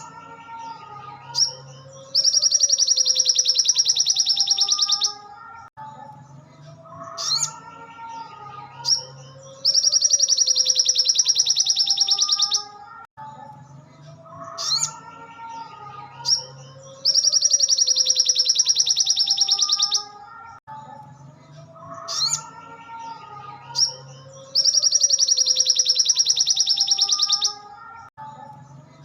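Looped tutor recording of a little spiderhunter (sogok ontong) singing: loud, rapid, evenly pulsed high trills about three seconds long, repeating about every seven seconds, with softer lower warbling notes and short rising calls between them.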